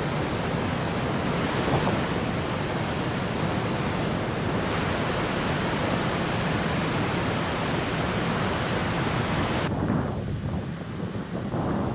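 Waterfall pouring: a loud, steady roar of falling water. Near the end it abruptly turns duller and slightly quieter.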